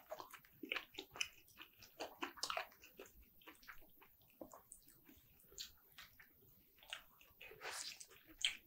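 Faint, wet chewing and mouth clicks from someone eating sliced roast turkey: a quick, irregular run of small clicks that thins out in the middle and picks up again near the end.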